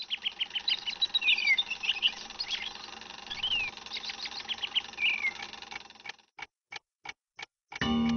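Birds chirping and twittering, with short repeated chirps and quick falling calls. Near the end the birds stop and five evenly spaced ticks follow, about three a second, before music starts.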